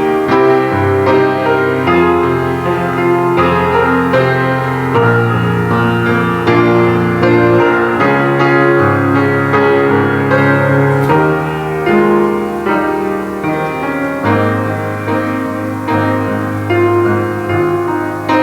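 Instrumental piano music: a slow piece of held chords over deep bass notes that change every second or two, with no singing.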